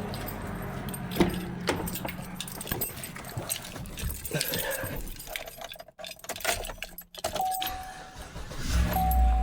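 Keys jangling, with a run of clicks and knocks from handling the pickup truck. From about seven seconds in a steady electronic chime sounds on and off, and near the end a loud low rumble comes in.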